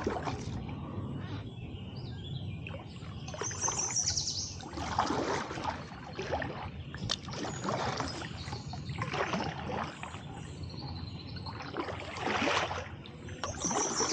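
Kayak paddle strokes: the blades dip and swish through the water, with splashing and dripping every couple of seconds. Birds chirp in the background.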